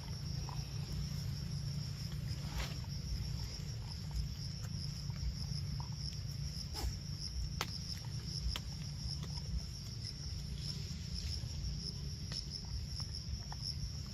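Steady high-pitched insect chirring, like crickets, with a few faint scattered clicks and snaps over a low background rumble.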